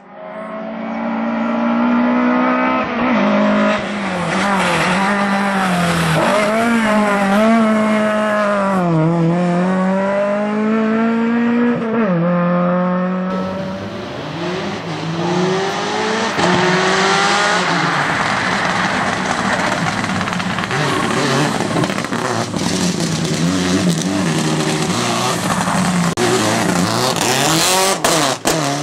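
Rally car engines driven hard, their pitch climbing and dropping again and again through gear changes and lifts off the throttle. About halfway through the sound switches abruptly to another run, with more tyre and road noise over the engine.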